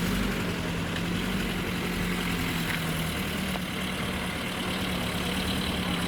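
Car engine idling steadily: a low rumble with an even hum.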